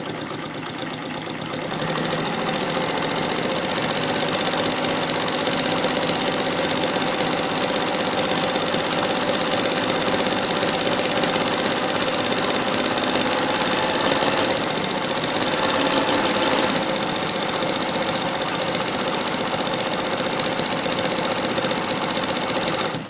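Bernina/Chandler 217 industrial sewing machine sewing at speed, its number 29 decorative cam swinging the needle through a 6 mm serpentine zigzag in two layers of 1000-denier Cordura. It picks up speed over the first two seconds, runs steadily, then stops suddenly.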